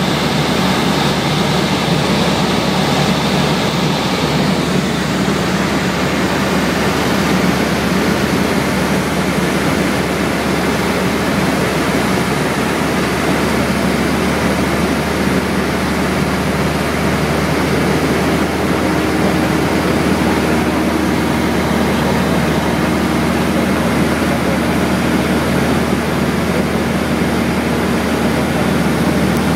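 Light aircraft's engine and rushing air running loud and steady during a landing, the engine note shifting slightly about two-thirds of the way through.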